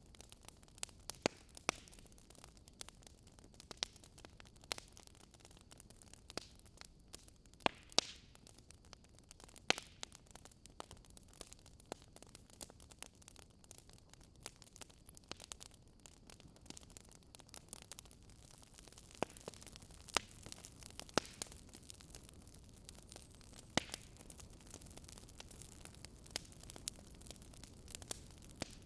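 Fire burning in a fireplace: a faint steady hiss with irregular crackles and pops, a handful of them sharper, louder snaps.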